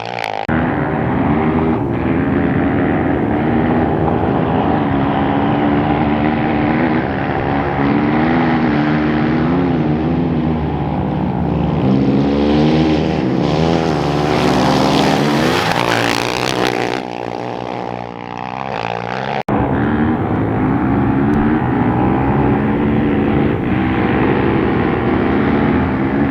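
Off-road racing motorcycle engine running hard, its pitch rising and falling with the throttle. A loud rushing noise swells about halfway through and drops away again, and the sound breaks off abruptly near the end before the engine picks up again.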